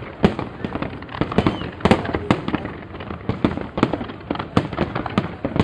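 Fireworks bursting in a rapid, irregular run of sharp bangs and cracks, several a second, over a steady rumbling crackle.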